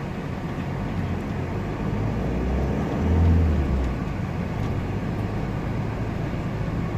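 Van engine and road noise heard from inside the cab while driving, a steady low rumble; about three seconds in, the engine's low drone swells louder for about a second, then settles back.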